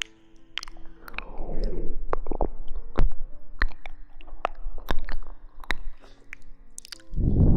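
Close-miked ASMR rustling: a string of crisp clicks and crackles, with a louder, fuller rustling swell near the end.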